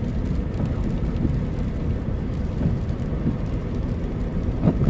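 Truck driving along a road, a steady low rumble of engine and tyres heard from inside the cab, with a brief louder sound just before the end.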